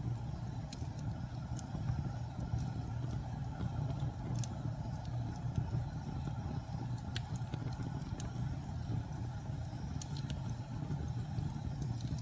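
Wood fire burning in a fireplace: a steady low roar of the flames with scattered sharp crackles and pops.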